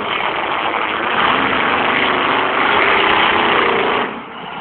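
Monster truck engine revving, growing louder and rising in pitch over a few seconds, then dropping off sharply near the end.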